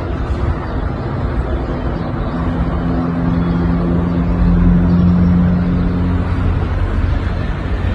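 A steady low motor hum over a loud rumbling noise, swelling a little around the middle.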